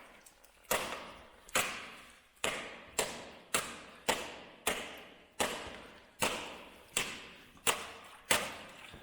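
A paddle striking ice on flooded mine water, about a dozen sharp blows at a steady pace of roughly one every two-thirds of a second, each echoing away in the large chamber. The ice holds: it is too thick to smash through.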